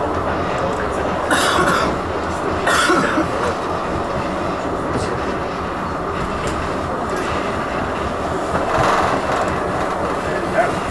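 Blackpool tram running along the track between stops, heard from inside the car: a steady rumble and rattle of wheels on rails. Brief louder bursts of rattle come about a second and a half in, near three seconds and near nine seconds.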